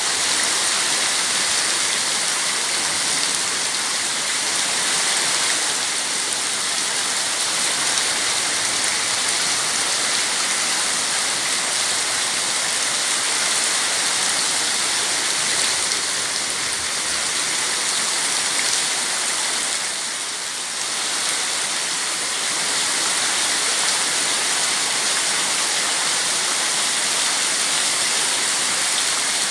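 Heavy rain falling steadily, a dense even hiss that eases slightly for a moment about twenty seconds in.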